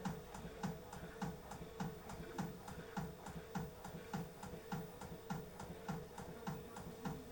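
Beko washing machine running mid-cycle: a faint steady motor hum with a regular ticking and soft thumping from the turning drum, about three ticks a second.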